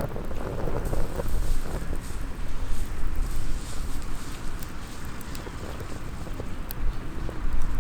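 Wind buffeting the microphone in a strong, uneven low rumble, with scattered small crackles and pops from a small wood fire.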